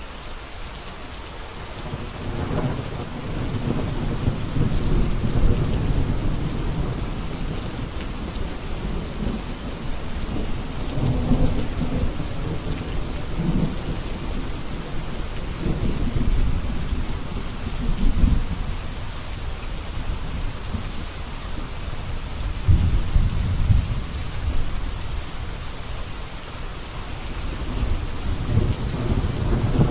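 Steady heavy rain with rolls of thunder rumbling low, swelling and fading several times.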